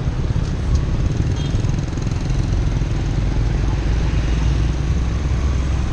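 Steady low rumble of wind and road noise during a bicycle ride, with motor traffic around.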